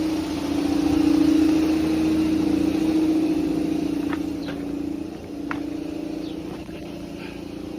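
A steady mechanical hum from a running motor, louder for about the first five seconds and then dropping in level, with a couple of light clicks.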